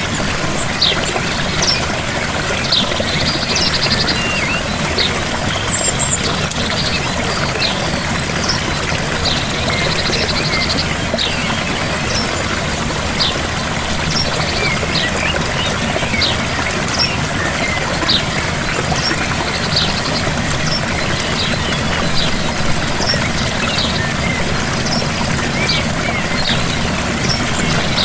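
Gentle waterfall rushing steadily, with small birds chirping and trilling repeatedly over the water.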